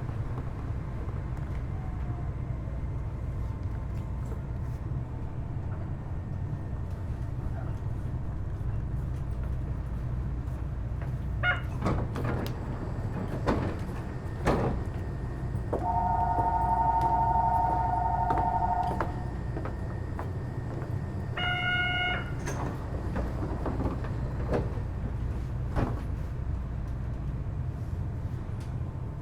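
Kitakyushu Monorail Series 1000 car standing at a station with its doors open, its onboard equipment giving a steady low hum. Several sharp knocks come near the middle, then a two-tone chime sounds for about three seconds, followed a few seconds later by a short buzzer, typical of the door-closing warning.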